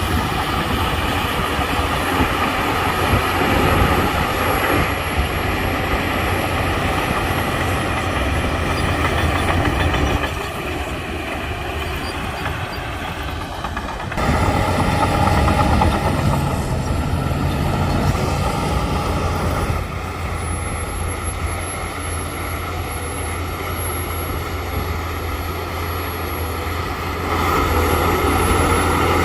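Shantui crawler bulldozer's diesel engine running while the dozer pushes dirt. It is loud and steady, dropping back for a few seconds twice and coming up again each time as the load changes.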